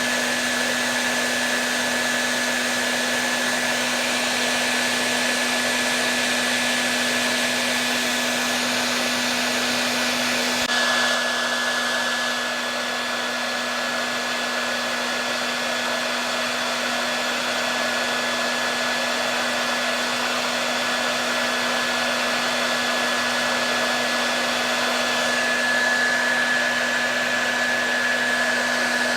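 Hair dryer running continuously with a steady whooshing airflow, a low hum and a thin whine; its tone shifts slightly about eleven seconds in.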